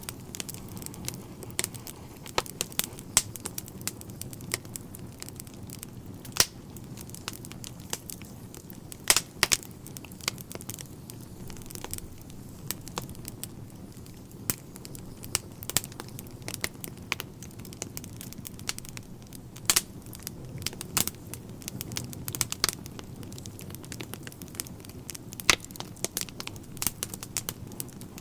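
Wood fire in a fireplace crackling: irregular sharp pops and snaps, several a second at times, over a steady low rumble of the burning logs.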